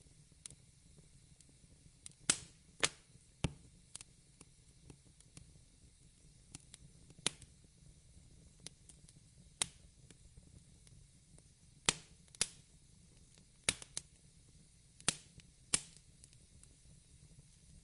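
Wood fire crackling, with irregular sharp pops, about a dozen loud ones among many faint snaps, over a soft steady hiss.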